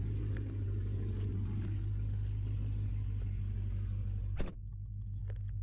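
Dodge Challenger 392's HEMI V8 with long-tube headers idling with a steady low rumble. About four and a half seconds in a single sharp thud, a car door shutting, and after it the higher hiss drops away and the idle sounds more muffled.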